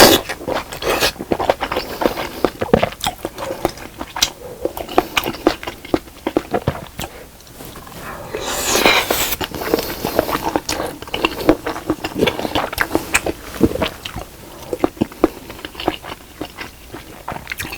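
Close-miked eating sounds of a person chewing fish cake and rice cake from a spicy broth: a steady run of wet mouth clicks and bites. There is a longer hissing burst about nine seconds in.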